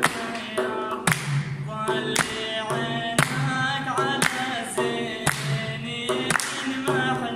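Male vocal singing of an Iraqi mawliya, in short pitched phrases over a steady beat of sharp hits about once a second.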